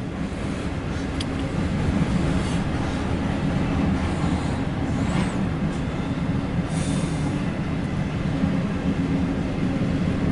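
CSX intermodal freight train rolling steadily past, its wheels running on the rails.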